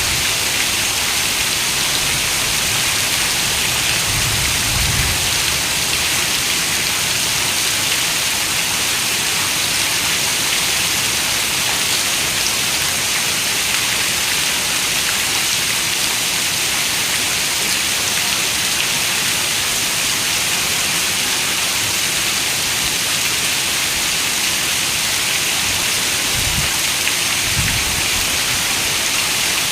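Steady rain, an even hiss of falling drops. Brief low rumbles come twice: about four seconds in and again near the end.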